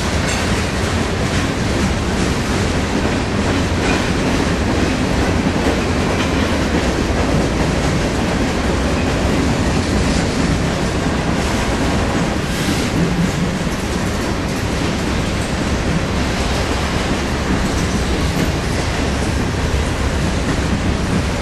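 Freight train cars rolling past at steady speed: a continuous rumble of steel wheels on rail, with occasional clicks as wheels cross rail joints.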